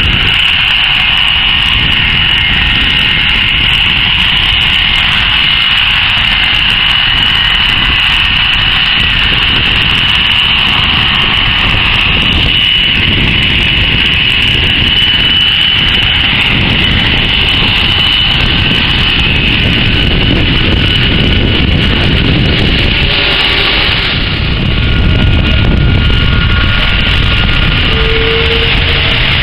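Airbus A330-300's Rolls-Royce Trent 700 turbofans running at close range: a loud, steady rumble with a high, constant whine on top, swelling slightly near the end.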